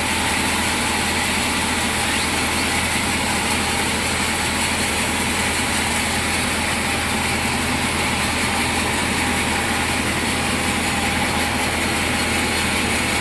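Sawmill machinery running with a steady, unchanging engine drone.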